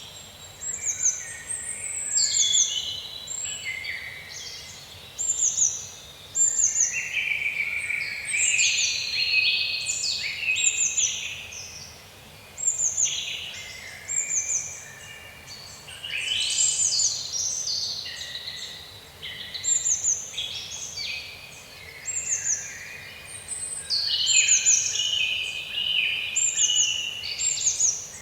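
Several songbirds singing in woodland, short high chirps and falling trills overlapping one another, over a faint steady background hiss.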